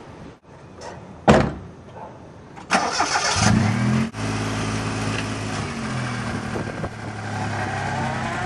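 A single loud thump about a second in. Then the Geo Metro's 1-liter three-cylinder engine is cranked by the starter a little under three seconds in, catches, and settles into a steady idle.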